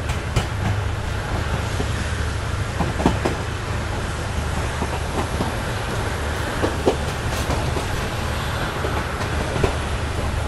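A moving passenger train heard from inside the coach: a steady low rumble, with scattered clicks and knocks from the wheels and running gear.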